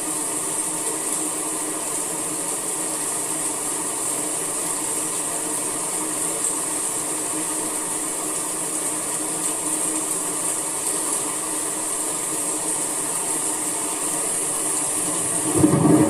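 Steady summer rain, an even hiss with no break. Near the end a louder low rumble comes in.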